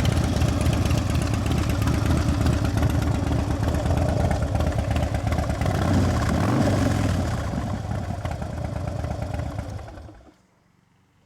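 Fuel-injected Twin Cam 110 V-twin of a 2008 Harley-Davidson Dyna Screamin' Eagle, fitted with Vance & Hines exhaust pipes, idling steadily. It shuts off about ten seconds in.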